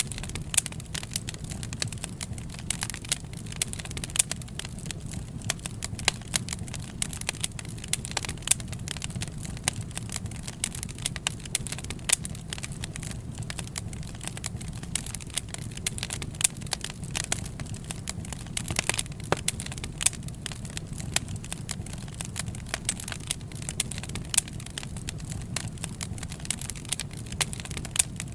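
Wood fire crackling: frequent irregular sharp pops and snaps over a low steady rumble of the burning fire.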